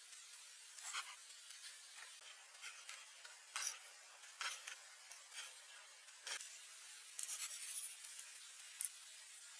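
Irregular light scraping and rubbing, a string of short strokes at uneven intervals, thickest about seven seconds in.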